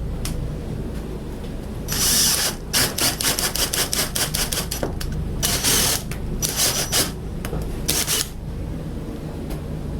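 Power drill boring holes, the bit cutting in several short bursts over a steady low motor hum, with a quick run of rattling clicks between bursts.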